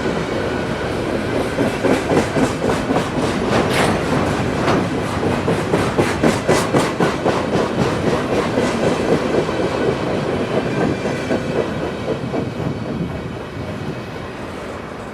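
Railroad cars rolling past, their wheels clicking rapidly and evenly over rail joints, fading in the last few seconds as the train moves off.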